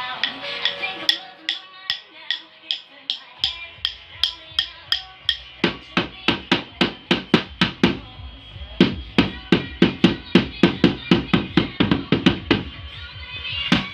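Supporter-style drum beaten in a steady beat, about three hits a second, by a beginner practising, over recorded music playing along. After about three and a half seconds the hits take on a deeper low thud.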